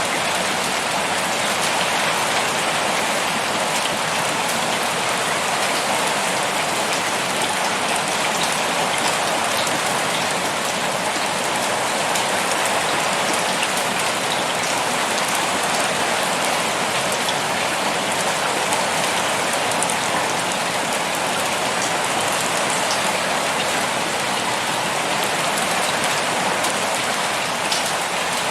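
Heavy rain pouring steadily, a dense even hiss with scattered sharper drop ticks.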